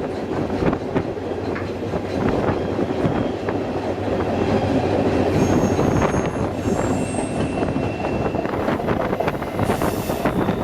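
Railway passenger car rolling along the track: a steady rumble with the wheels clicking over rail joints, and a brief thin high-pitched wheel squeal about halfway through.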